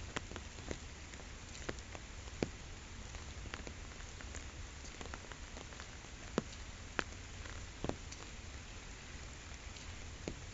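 Rain falling on a pond: a steady patter with individual drops landing at irregular moments, a few of them louder and sharper.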